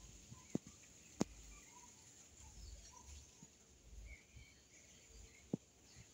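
Faint outdoor ambience with scattered short bird chirps over a steady high hiss, broken by three sharp clicks.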